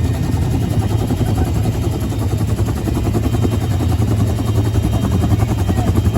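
Bell UH-1H Huey helicopter heard from inside the cabin: its Lycoming T53 turboshaft and two-bladed main rotor running loud and steady, with a deep throb and fast pulsing.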